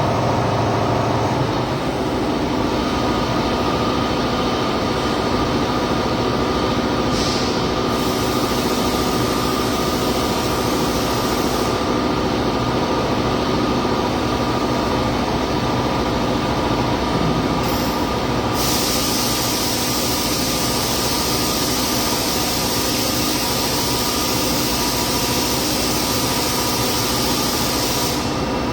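Robotic welding cell at work: a steady mechanical hum with a high hiss that switches on and off sharply several times, typical of the welding arc striking and stopping between weld segments.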